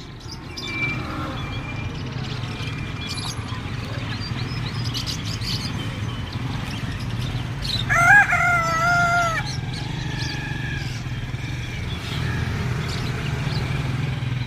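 A rooster crows once, loud and drawn out, about eight seconds in, over scattered short chirps from caged small birds and a steady low hum.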